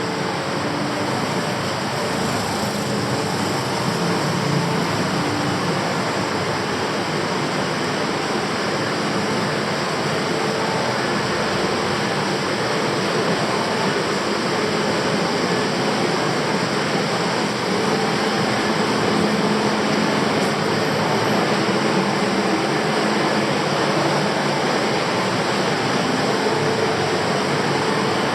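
Steady city traffic noise: a continuous, even wash of vehicle sound with no single event standing out.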